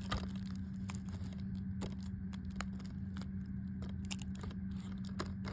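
Scattered clicks and crinkles of a plastic DVD case and its wrapping being handled and pulled open, over a steady low hum.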